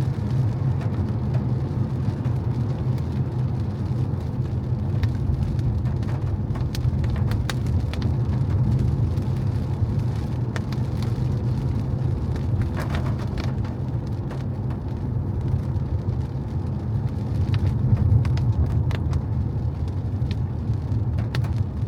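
A car driving on wet roads in the rain: a steady low rumble of road and engine, with scattered light ticks of rain throughout.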